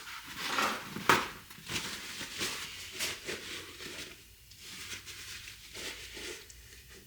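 Gasket scraper working old, cooked-on gasket material off a Toyota front hub face, a run of short irregular scrapes with a sharp knock about a second in.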